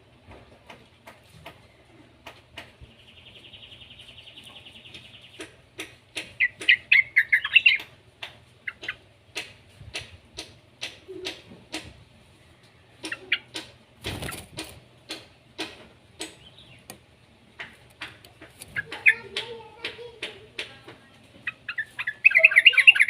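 Young yellow-vented bulbul calling: a buzzy trill, then loud bursts of chattering calls, with many short sharp clicks in between and a final burst of chatter near the end.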